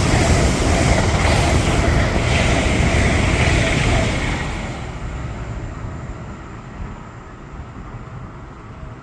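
A train passing, loud for the first four seconds, then fading away as it goes.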